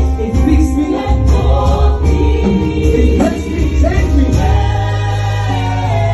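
Gospel music: a choir singing over a steady bass line, settling on a long held chord in the last couple of seconds.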